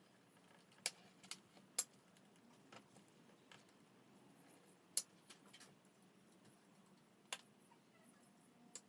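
Scattered sharp clicks and clinks of tools and metal parts being handled while an aluminum bicycle is stripped for scrap. There are about nine irregular clicks, the loudest at about one second, just under two seconds and five seconds in.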